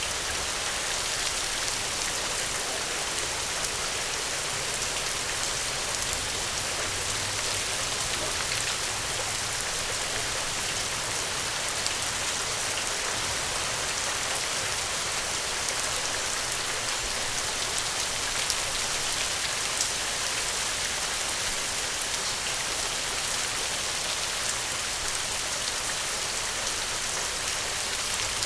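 Gentle rain falling steadily, an even hiss with scattered individual drop ticks.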